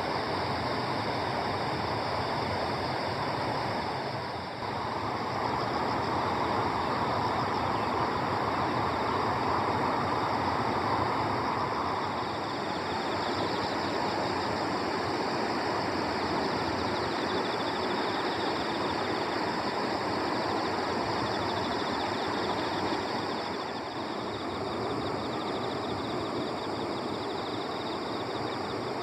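Steady outdoor ambience: an even rushing noise with no distinct events, dipping briefly about four seconds in and again a little before the end.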